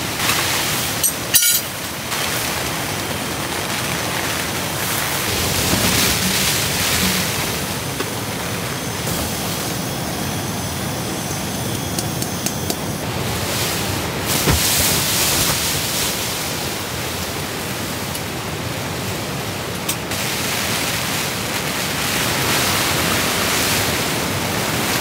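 Heavy rain and wind beating on tent fabric, a steady rushing hiss that swells and eases in gusts. A few light clicks come through about a second in and again about halfway through.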